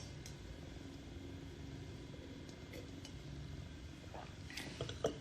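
Quiet room tone: a faint steady hum with a few small clicks and rustles, most of them in a cluster near the end.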